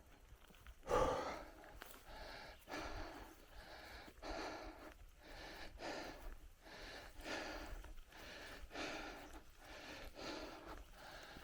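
A cyclist's heavy, rhythmic breathing, a breath in or out roughly every three quarters of a second, with a louder puff about a second in.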